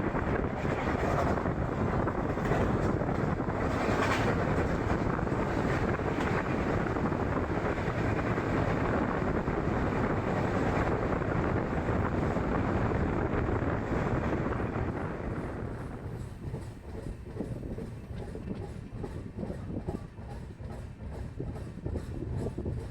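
Express passenger train rolling on the rails: a steady rumble that falls to a quieter rattle with regular wheel clicks about two-thirds of the way through.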